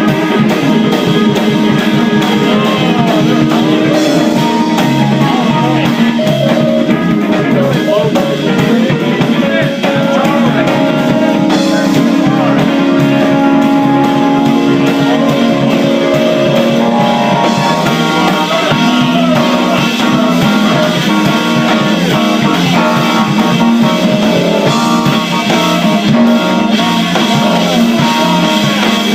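Live band playing loud rock music: guitars and a drum kit, with a voice singing.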